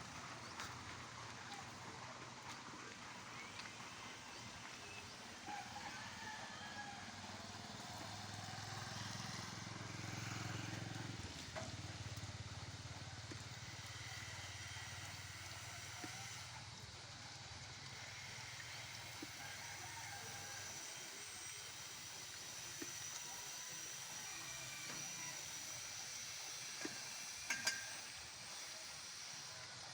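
Steady hiss of falling rain. A low rumble runs under it, swells about a third of the way in and dies away about two-thirds in, and a few sharp clicks come near the end.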